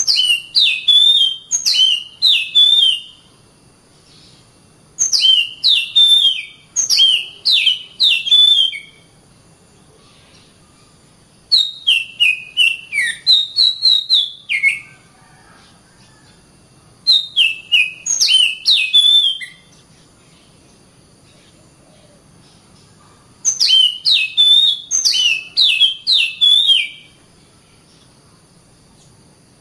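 Oriental magpie-robin (kacer) singing in five bursts of about three seconds each, made of quick high notes that slide down in pitch, with pauses of a few seconds between bursts.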